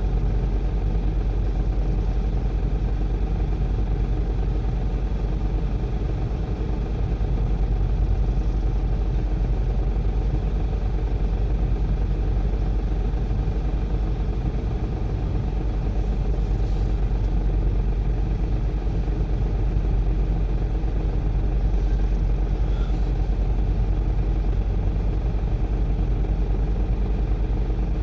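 Heavy diesel machine engine running steadily with a low, even rumble.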